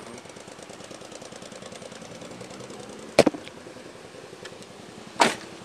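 Police patrol car engine idling with a fast, even ticking, broken by two sharp knocks, one about three seconds in and another near the end.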